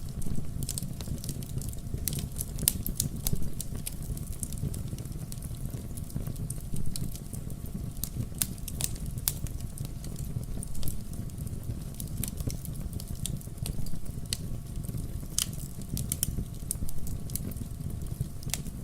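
Wood fire burning in a fireplace: a steady low rumble of the flames with irregular sharp crackles and pops all through.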